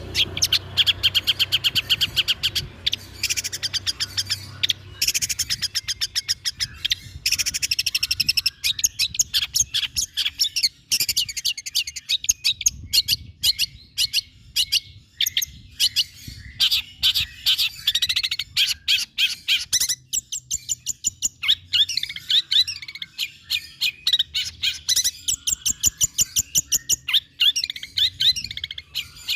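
Long-tailed shrike (cendet) singing a long, fast, varied song of rapid repeated notes and trills, in phrases of a second or two broken by short pauses.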